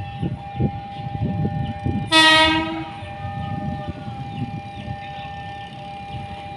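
A train sounds one short horn blast of under a second, about two seconds in, over the rumble and clatter of a train running on the rails. A steady high tone runs underneath.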